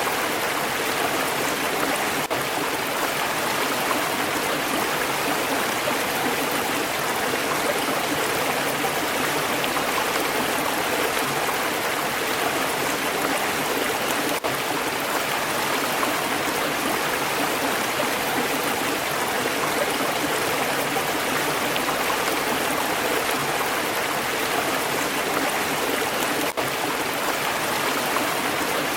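Stream water flowing steadily, with two momentary dips in level.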